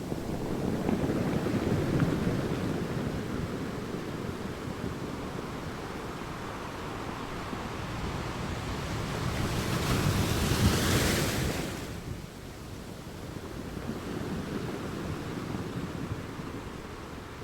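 Sea waves breaking and washing over a rocky beach: a low surging rush that builds and fades, with a louder, hissing wave crash about ten seconds in that drops off sharply a couple of seconds later.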